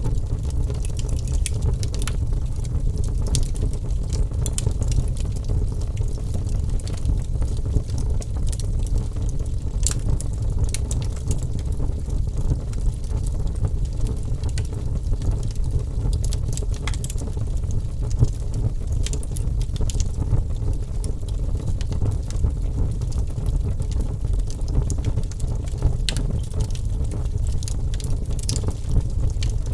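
Wood fire burning with a steady low rumble of the flames and irregular sharp crackles and pops from the burning logs.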